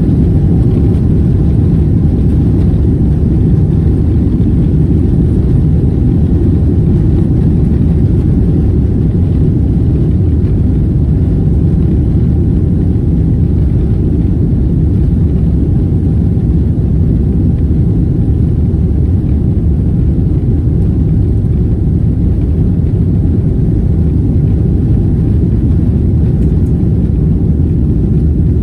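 Steady low rumble of a Boeing 777-200's jet engines and airflow, heard from inside the passenger cabin during takeoff.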